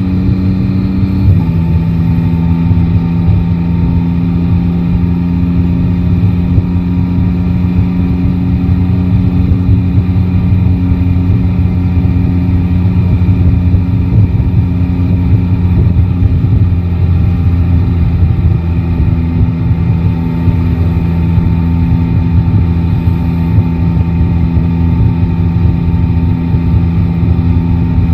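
Three-cylinder motorcycle engine running at a steady pace. Its pitch drops suddenly about a second in, as with a shift up a gear, then holds steady, over constant wind and road noise.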